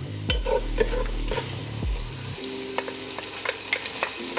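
Diced red onions frying in bacon grease in a pot: a steady sizzle with scattered sharp pops and clicks, and a wooden spatula stirring and scraping the pan.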